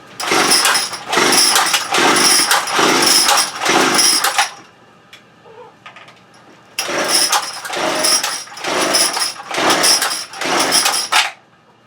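Small two-stroke engine running loud in repeated pulsing surges, dropping back for about two seconds near the middle and then surging again, while its carburetor is out of adjustment. The owner suspects the stop switch.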